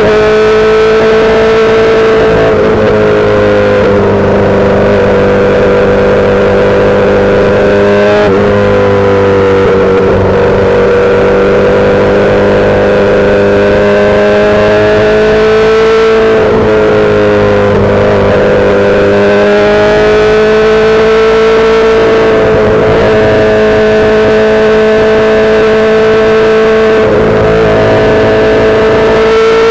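2008 Yamaha R6 sport bike's inline-four engine through a full SC-Project exhaust, held at steady high revs while cruising. Its pitch drifts slowly up and down, with brief throttle dips about four times.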